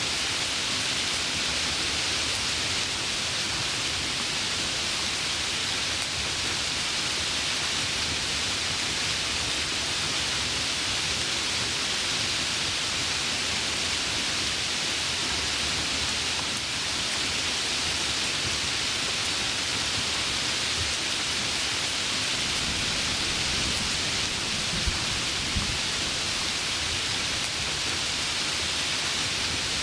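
Heavy rain falling steadily, a dense even hiss. About three-quarters of the way through, a low rumble of thunder swells, with two brief thumps close together.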